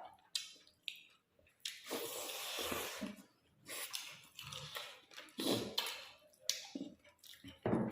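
Irregular chewing and wet squishing sounds of people eating a meal of rice with chicken gravy and dal, in uneven bursts with short pauses.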